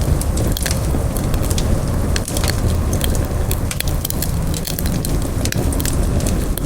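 Wood campfire burning, with a steady low rumble of flames and frequent sharp, irregular crackles and pops.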